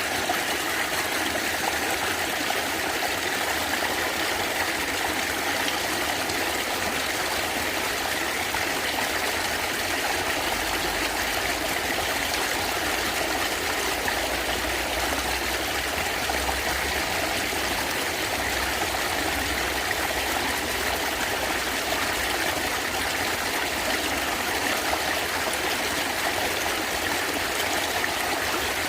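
Natural stream water running and gurgling in a steady, continuous rush.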